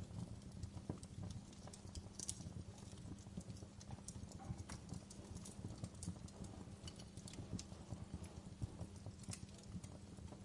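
Wood fire crackling, with many small irregular pops and snaps over a low, steady rumble of flames.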